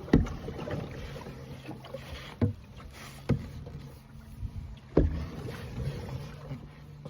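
Canadian canoe being paddled, with a few sharp knocks from the paddle against the hull, over the steady drone of a distant petrol strimmer.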